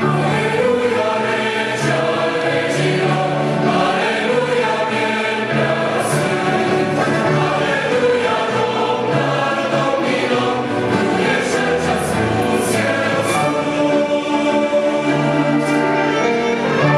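A choir singing a Christian worship song together, with instrumental accompaniment, in sustained, full-voiced harmony.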